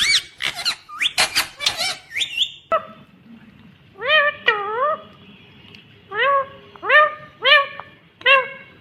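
Indian ringneck parakeet calling: short, high squawks that rise and fall in pitch, several in quick succession at first, then single calls spaced about half a second to a second apart after a brief pause.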